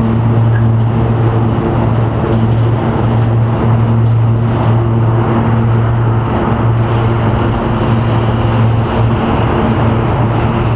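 City street noise: a steady low mechanical hum from a motor or engine running without change, over a haze of traffic.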